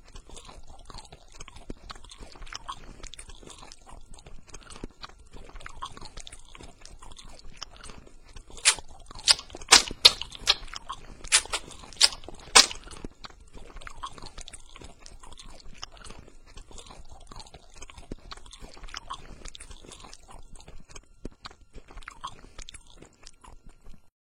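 Continuous crunching and chewing, with a run of about seven loud, sharp cracks around the middle.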